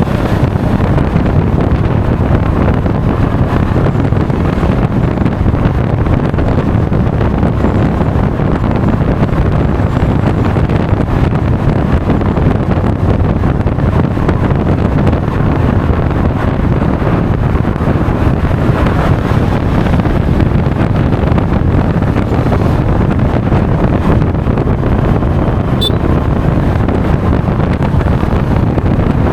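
Steady, loud wind rush on an action camera's microphone while riding a Honda Forza 350 scooter at speed, the low rumble of the airflow drowning out most other sound.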